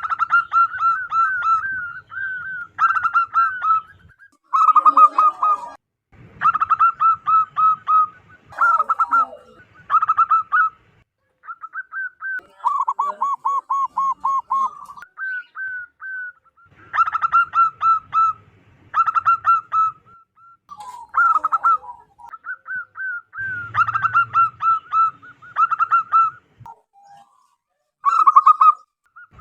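Zebra doves (perkutut) cooing: series after series of quick, clipped, pulsing coo notes, with short pauses between the series. One series about halfway through runs at a lower pitch.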